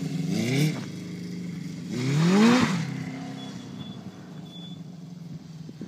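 1978 Honda CB750's four-cylinder engine through a 4-into-1 exhaust, revving up twice as the motorcycle accelerates away. The sound then steadies and fades as the bike rides off.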